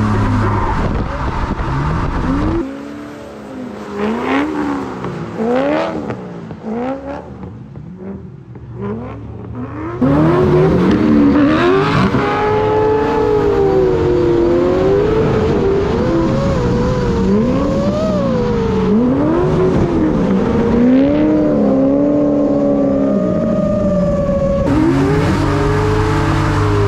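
Drift cars' engines revving hard, their pitch rising and falling over and over as they slide, with several engines heard at once. The sound changes abruptly about three seconds in, gets quieter, then turns loud again about ten seconds in and shifts once more near the end.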